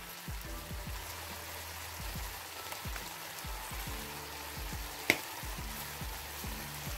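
Okra frying gently in a pan, a soft steady sizzle over a low hum, with one sharp click about five seconds in.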